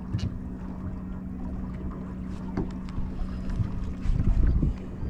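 Steady hum of a small boat's motor, with wind buffeting the microphone, a louder gust about four seconds in, and a few light knocks.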